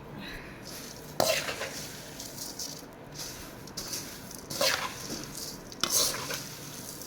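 Crisp puffed rice being stirred and tossed in a pan with its fried tempering: a steady dry rustle, with the stirring utensil scraping sharply against the pan about a second in and again near five and six seconds.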